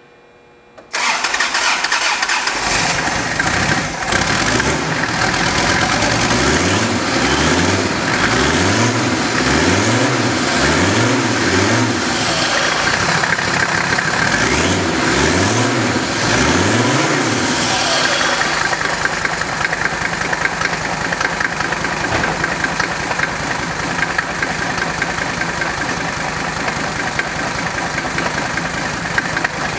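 Mercedes-Benz OM617 five-cylinder turbo diesel starting for the first time after being swapped into a truck. It fires about a second in, revs up and down over and over for roughly fifteen seconds, then settles into a steady idle.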